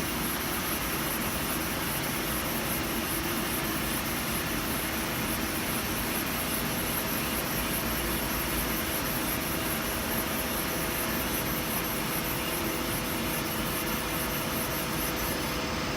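CNC turning center running with its chuck spinning, a steady machine hum and hiss with a few constant tones, while the tool is fed slowly by the handwheel to face the workpiece.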